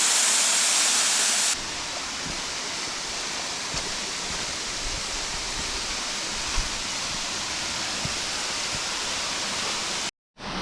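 Waterfall rushing steadily. About a second and a half in, the sound drops suddenly to a softer, less hissy rush, and it cuts out for a moment near the end.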